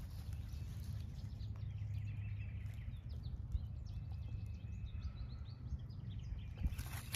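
Wild songbirds chirping in quick short notes over a low steady rumble.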